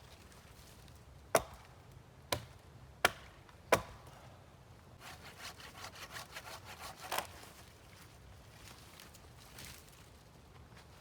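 Wood being worked by hand: four sharp blows on wood about a second apart, then a quick run of rasping strokes, about five a second for a couple of seconds, like a saw cutting through wood.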